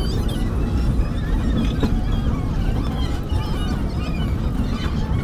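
Steady rumble of a moving passenger train, played sped up, with many short high warbling sounds over it.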